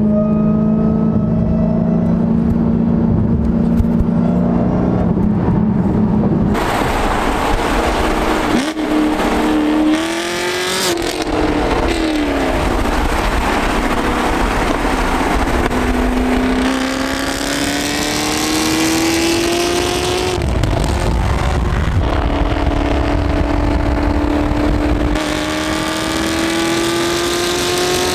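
Supercharged car engine cruising steadily, then accelerating hard about six seconds in: the engine note and supercharger whine climb in pitch and drop back at each of several gear shifts.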